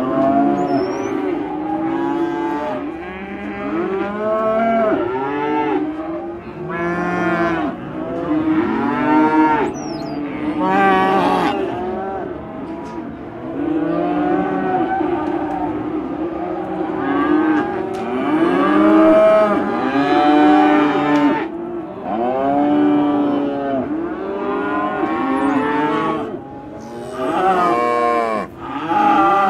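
A herd of cattle mooing, many calls overlapping almost without a break.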